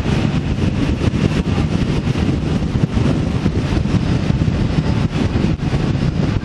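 Wind buffeting the microphone over the steady road and engine noise of a moving vehicle on tour, loud and fluttering throughout.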